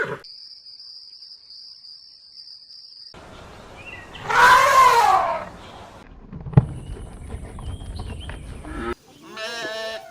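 Separate animal sound-effect clips, one after another. A faint steady high tone for about three seconds. Then a loud call that rises and falls for about a second, a sharp click, and a quavering call near the end.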